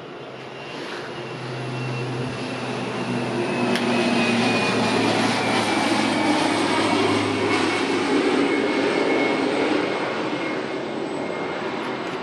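A loud rushing, engine-like roar that swells over the first few seconds and slowly fades, with a faint whine falling gradually in pitch.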